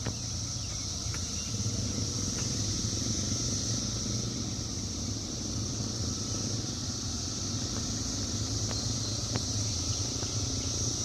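A swarm of 17-year periodical cicadas singing in chorus: a steady, high, unbroken drone with a low rumble underneath.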